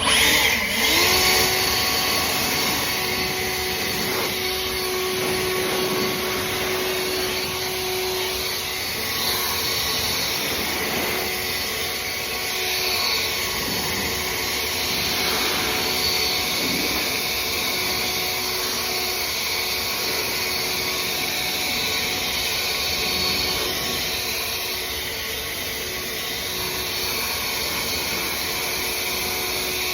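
Leaf blower switched on, spinning up within about a second to a steady whining run, blowing water off freshly washed minibikes.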